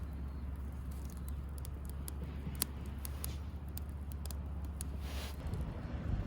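Wood campfire crackling, with scattered sharp pops, over a steady low rumble that stops near the end.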